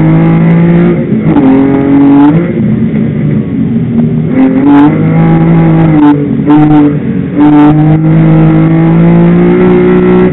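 BMW 323i's straight-six engine at hard throttle, heard loud from inside the cabin during a hillclimb run, its note climbing and then dropping off through several gear changes and lifts for the bends, with a few quick short revs in the middle.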